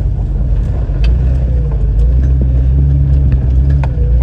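Car's engine and road rumble heard from inside the cabin, steady and low, with a few sharp clicks or knocks along the way.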